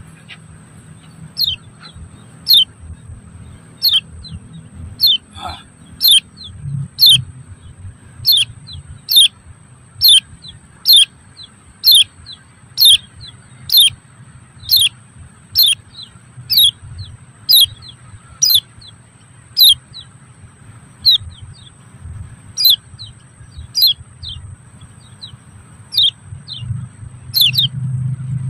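A bird calling over and over with short, sharp chirps that drop quickly in pitch, about one a second, loud and close.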